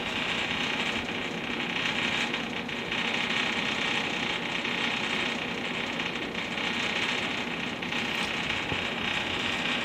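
A steady engine drone with a constant hiss over it, running evenly without a break.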